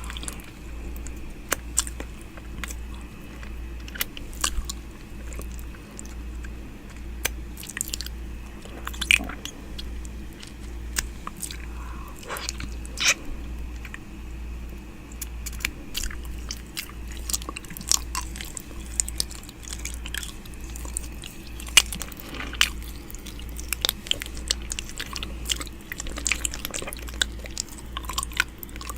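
ASMR ear-eating mouth sounds close to the microphone: wet mouth clicks, smacks and nibbling in quick, irregular succession, over a steady low hum.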